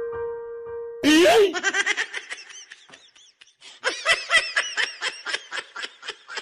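A piano note fading out, then about a second in a high-pitched laugh breaks out: rapid snickering bursts that die down, pick up again about four seconds in, and stop near the end.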